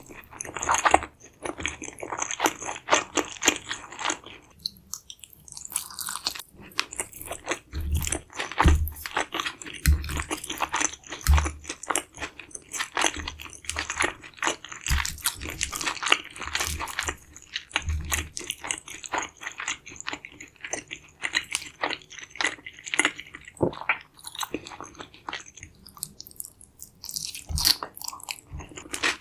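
Close-miked biting and chewing of a deep-fried carnitas chimichanga, its crisp fried tortilla shell crunching and crackling in quick, irregular bites, with several low thuds in the middle.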